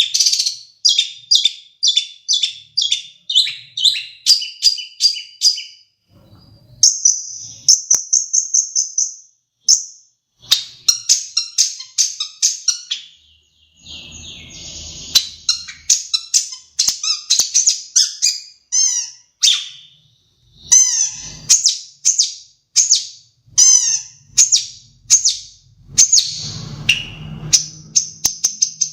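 Long-tailed shrike (cendet) singing a varied song of rapid, high chirps and short trills in repeated phrases with brief pauses, working in imitations of other birds such as sparrows.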